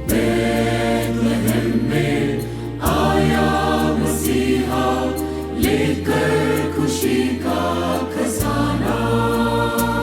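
Church choir singing a Christmas carol, with instrumental accompaniment: sustained bass notes changing with the chords and regular percussion strikes.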